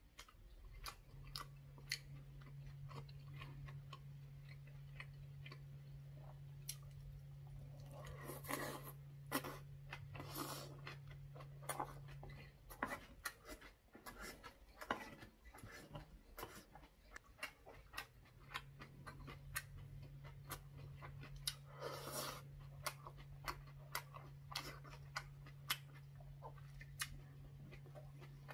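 Close-miked chewing and wet mouth clicks of a person eating braised saury with kimchi and rice, with a few longer, louder smacking noises around a third of the way through and again after three-quarters. A steady low hum runs under most of it, breaking off for a few seconds in the middle.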